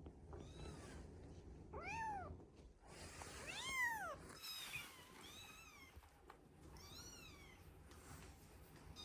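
A young kitten meowing: about five short, high mews, each rising then falling in pitch, spaced irregularly a second or two apart.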